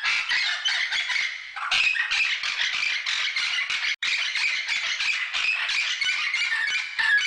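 A flock of birds squawking and chattering, many short high calls overlapping without a pause. The sound breaks off for an instant about four seconds in.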